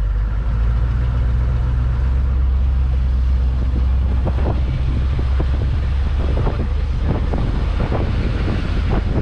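Vehicle running with a steady low rumble. Wind buffets the microphone in irregular gusts from about halfway through.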